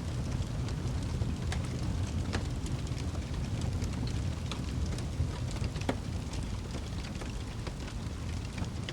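Wood fire burning in a fireplace: a steady low rumble with frequent scattered crackles and small pops.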